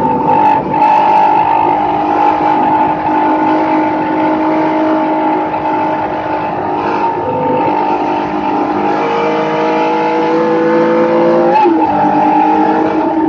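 Race car engine heard from inside the caged cockpit, pulling hard under load with its pitch rising slowly, over road and wind noise. Near the end the note briefly breaks and settles at a new pitch.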